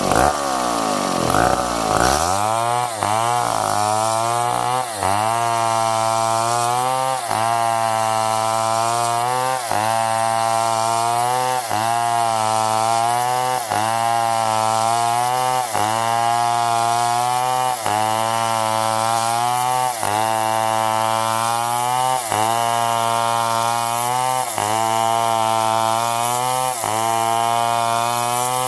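Stihl 070 chainsaw, a large two-stroke, running. It is blipped up and down quickly in the first two seconds, then held at steady high revs as it cuts, with a brief dip in pitch about every two seconds as the bar bites into the wood.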